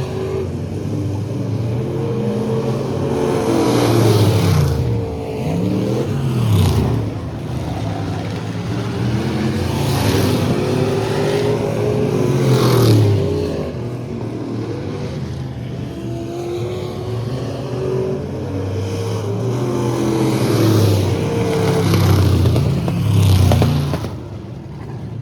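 Racing trucks' engines running at speed around the oval, rising and falling in pitch as they pass again and again, loudest about four, ten and thirteen seconds in and twice near the end.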